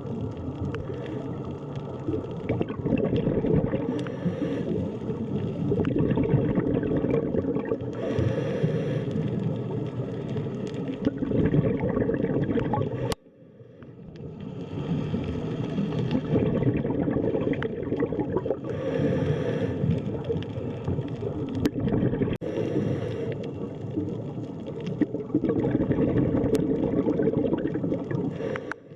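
Underwater ambience: a steady low gurgling, bubbling wash of water. It cuts out abruptly about 13 seconds in and fades back up over the next second or two, like a loop or edit point in the track.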